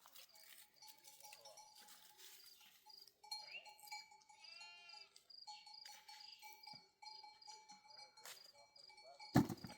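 Livestock bleating: one wavering call about four to five seconds in. A sharp thump near the end is the loudest sound.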